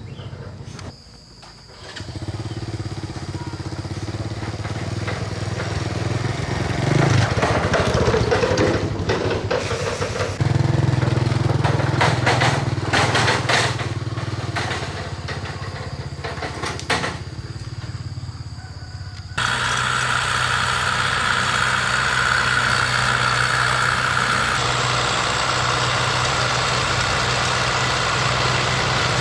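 Small petrol engine running steadily under load, its note shifting abruptly twice.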